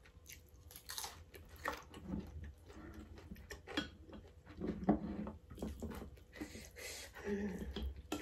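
Close-up chewing of a mouthful of Samyang spicy fried noodles: irregular wet mouth sounds and small clicks.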